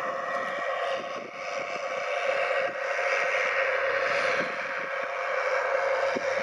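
New Holland T7060 tractor engine running steadily while pulling a six-furrow plough, with a brief dip in level about a second in.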